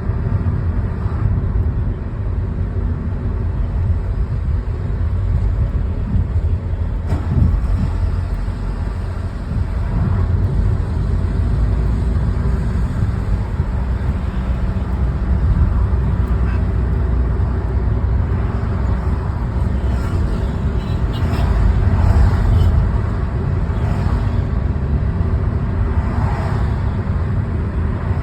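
Steady low rumble of a car driving through city traffic: engine and tyre noise.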